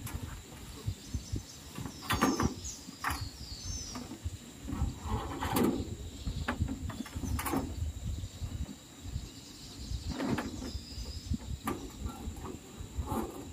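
Irregular knocks and clatters, about seven spread over several seconds, with a few short bird chirps and a steady high insect whine behind them.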